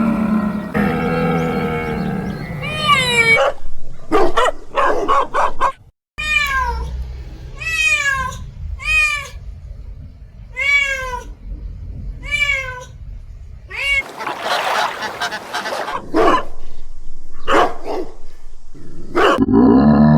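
A run of animal calls. In the middle, a cat meows about seven times, short falling cries roughly a second apart. Before them comes a low drawn-out call, and after them a noisy rasping call and a few sharp knocks.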